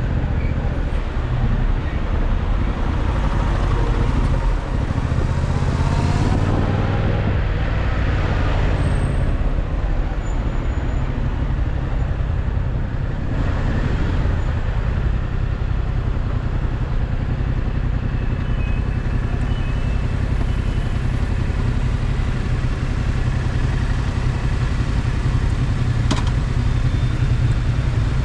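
Yamaha MT-07's parallel-twin engine running as the motorcycle rides through city traffic, under a heavy low rumble of wind on the microphone. The pitch rises and falls a few times in the first ten seconds, and there is a single sharp click near the end.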